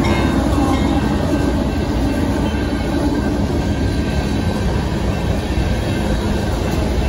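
Union Pacific grain train's freight cars rolling past close by: a loud, steady rumble and clatter of steel wheels on the rails.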